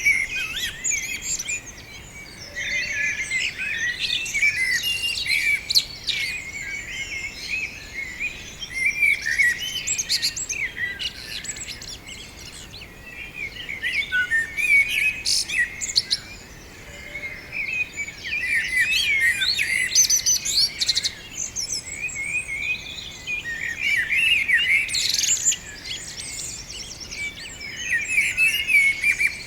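A group of small songbirds chirping and twittering together, many quick overlapping calls that swell into busy bursts of song and ease into short lulls every few seconds.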